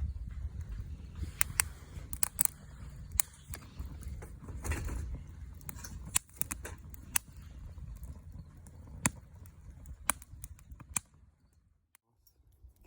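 Wood campfire crackling: scattered sharp pops and snaps over a low rumble, which drops away suddenly near the end.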